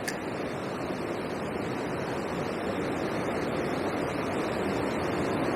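Steady rushing of water over a river weir, an even hiss.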